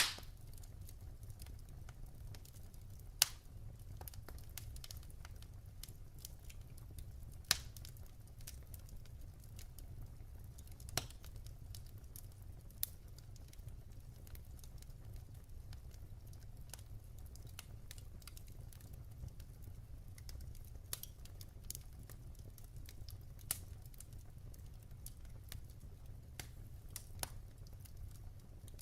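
Wood fire burning in a fireplace: irregular soft crackling with a few sharper pops, the loudest about three and seven seconds in, over a steady low rumble.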